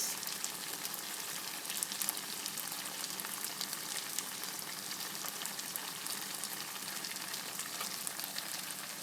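Cornish hen masala pieces sizzling and crackling in a nearly dry pan, a steady hiss dotted with small pops: the liquid has cooked off and the meat is frying in its oil.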